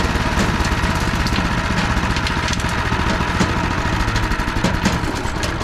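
Powerhorse 420cc wood chipper shredder's gasoline engine running steadily, with scattered sharp clicks over the engine.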